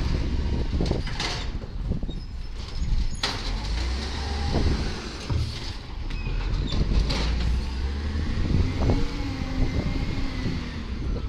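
Volvo garbage truck running with a low engine rumble, with several sharp clanks and a whine that rises and then falls near the end.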